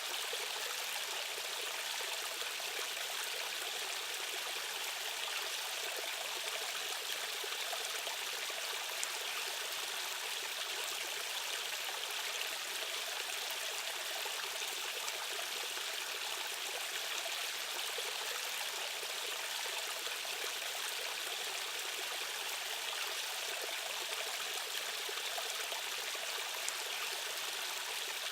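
Fast-flowing stream rushing over rocks: a steady, unbroken rush of water, bright rather than deep.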